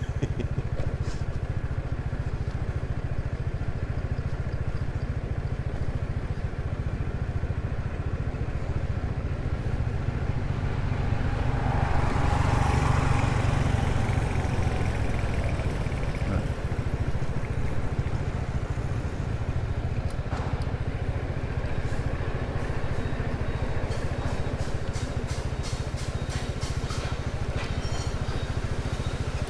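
Small motor scooter riding along a road: a steady engine hum with a low wind rumble on the microphone, swelling louder for a couple of seconds about halfway through.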